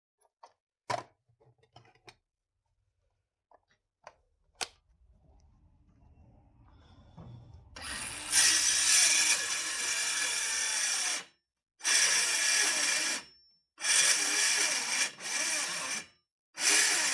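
Cordless circular saw cutting form ply. After a few light knocks it starts about eight seconds in and runs for about three seconds, then cuts in short stop-start bursts of about a second each. The saw is underpowered for the sheet: "gutless".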